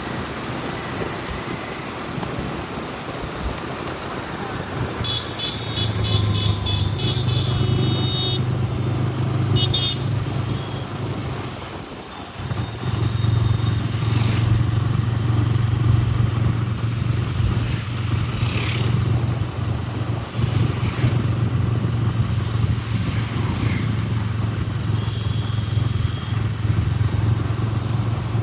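Motor vehicle engine running steadily in road traffic, with horns beeping several times.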